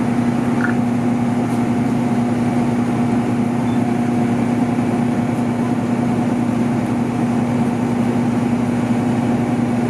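Engine idling with a steady drone and a constant low hum.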